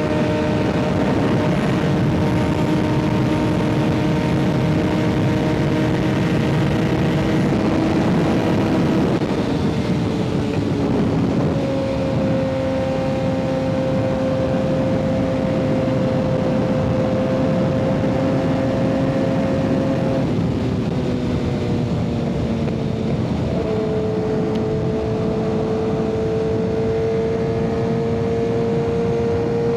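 Kawasaki ZX-6R 636's inline-four engine running through an M4 aftermarket exhaust while riding, holding a steady note. The pitch shifts about a third of the way in, dips, then settles again near the end.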